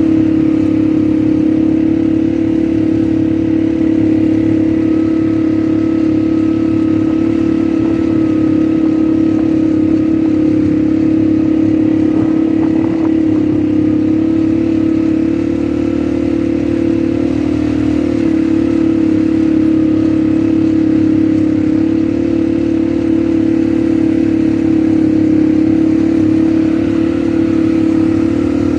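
ATV engine running at a steady pitch and load throughout.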